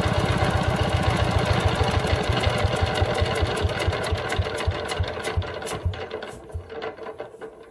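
Small stationary diesel engine running with an even knock, then shut off: its firing strokes slow down, fade and come to a stop over the last few seconds.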